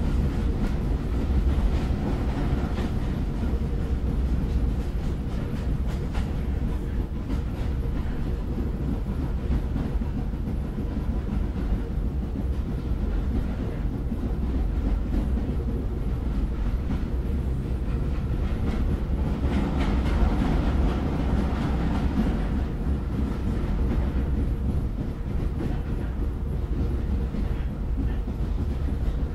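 Train running on the rails: a steady low rumble that swells slightly about two seconds in and again around twenty seconds.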